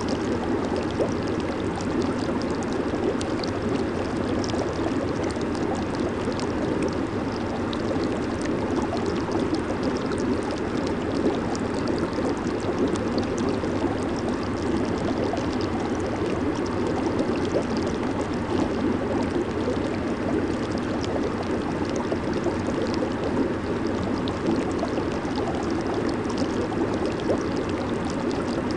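Jacuzzi hot tub running: a steady, even rush of churning water with a fine crackle of bursting bubbles.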